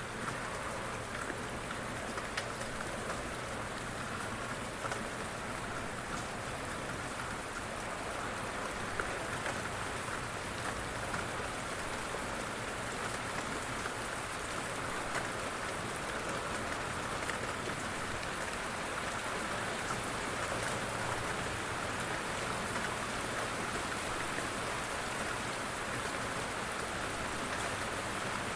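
Steady rain: an even hiss dotted with the small ticks of single drops, holding the same level throughout.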